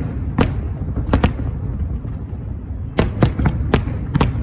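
Aerial fireworks exploding as sharp bangs over a steady low rumble. There are a few single bangs at first, then a quicker run of about five bangs in the last second and a half.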